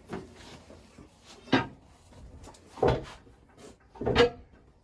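A heavy milling machine being shoved sideways across a concrete floor, making three short scrapes or knocks about a second apart.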